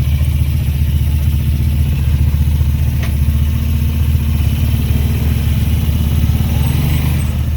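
A vehicle engine idling steadily at a constant low pitch.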